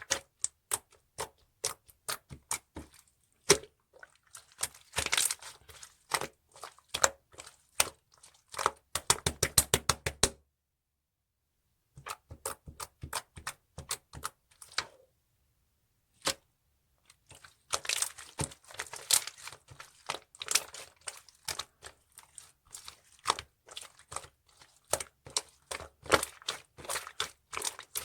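Clear slime being squeezed and pressed by hand, giving sticky clicks and small air-bubble pops, with a quick run of rapid pops near the middle. The clicking stops briefly twice.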